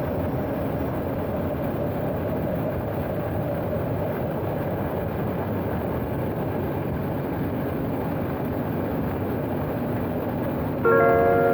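Steady running noise of a motorcycle being ridden: engine drone mixed with road and wind noise, with no change in pitch. Near the end a steady sound of several held tones starts abruptly.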